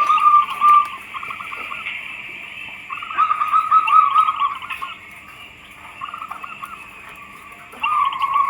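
Zebra dove (perkutut) cooing: three phrases of soft, warbling trilled notes, one ending about a second in, another about three seconds in, and a third starting near the end.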